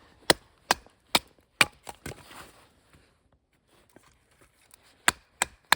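A wooden baton striking the spine of a knife to split a piece of wood, in sharp separate knocks. There are about five quick strikes over the first two seconds, a pause, then a few more near the end.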